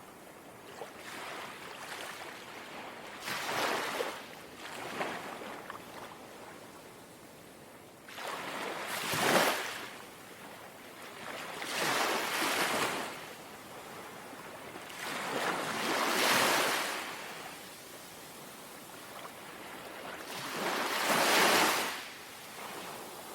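Small, calm sea waves lapping in a slow rhythm: about six washes in twenty seconds, each swelling and fading over a second or two, the loudest near the middle and near the end.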